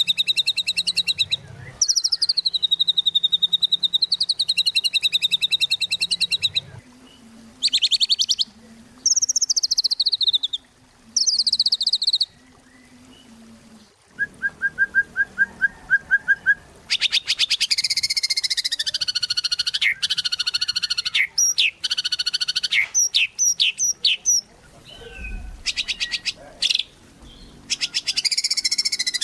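White-rumped shama (murai batu) singing a long, varied song: phrases of fast trilled notes broken by short pauses, a quick run of lower repeated notes about halfway through, and sharp flicked whistles.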